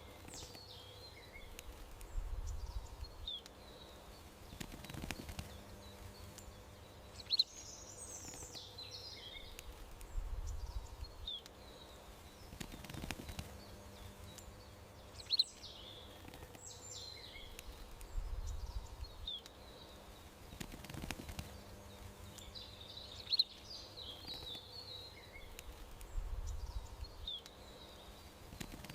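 Garden songbirds chirping: short high calls and brief twittering runs, with a low rumble and a sharp click. The same pattern comes back about every eight seconds, over a faint steady hum.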